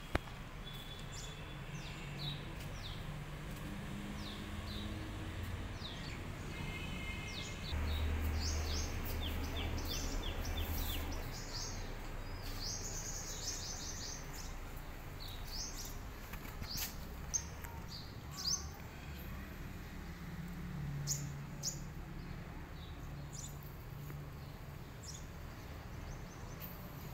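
Small birds chirping with many short, high calls throughout, over a low background rumble that swells for a few seconds about a third of the way in.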